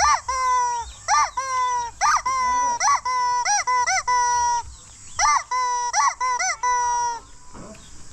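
Rubber chicken toy squeezed over and over, giving loud, high-pitched squeals. They come in pairs, a short rising-and-falling yelp followed by a longer held note, and stop about seven seconds in.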